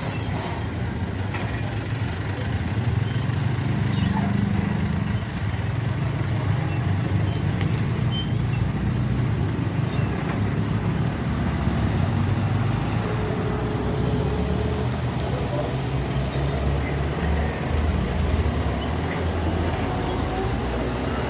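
Road traffic with heavy trucks' diesel engines running, a steady low sound with no sharp events.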